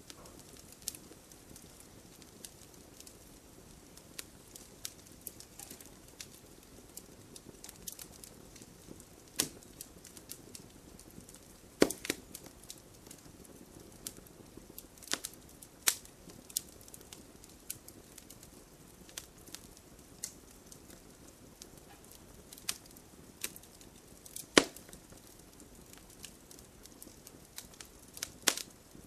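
Wood fire crackling in a fireplace: a low steady hiss of burning with irregular sharp pops and snaps, a few of them much louder, near the middle and about three-quarters of the way through.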